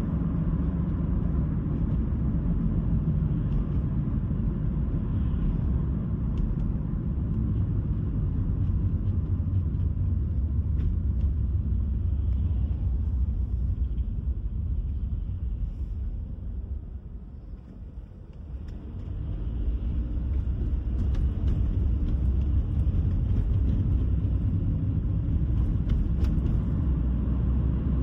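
A car being driven, heard as a steady low rumble of tyre, road and engine noise. Its level falls away about two-thirds of the way through and then builds back up, as the car eases off and picks up speed again.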